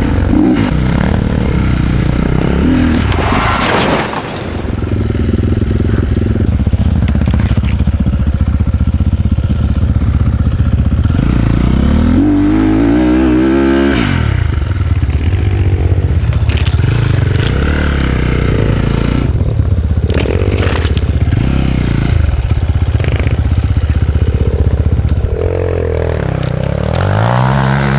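Enduro dirt bike engine revving up and down under load, pitch climbing sharply around the middle and again near the end, with clattering and scraping from the ride.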